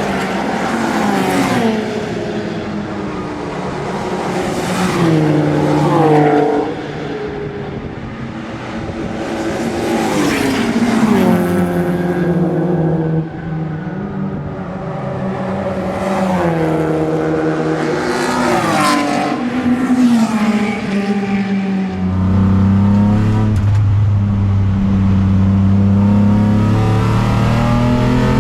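Alfa Romeo 156's 3.0 V6 race engine at racing speed, its note climbing and falling back repeatedly with gear changes. Late on it settles into a steadier, lower note.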